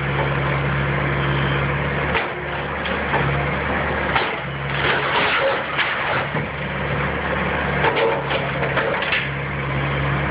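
Engine of a heavy demolition machine running and working under changing load, while a wood-framed house is torn apart, with repeated cracking and crunching of breaking wood.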